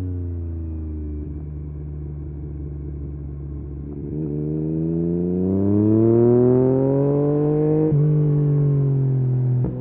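Yamaha MT-09 SP's 890 cc inline-three, through a full Akrapovic race exhaust, under riding load. The engine note falls, holds steady, then climbs under acceleration from about four seconds in. The pitch drops suddenly at an upshift shortly before the end, and the throttle is shut right at the end.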